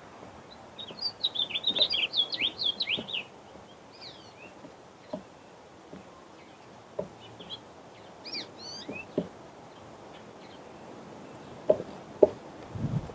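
Small birds chirping: a quick run of twittering calls about a second in, then scattered chirps. A few short soft knocks come between them, the loudest two near the end.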